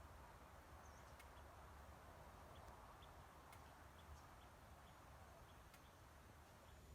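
Near silence: faint steady hiss and low hum, with a few faint scattered ticks.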